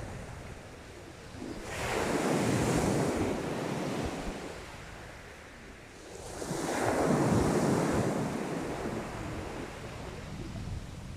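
Sea waves breaking on the shore twice. Each surge swells and then fades over a few seconds, the first about two seconds in and the second about seven seconds in, over a steady wash of surf.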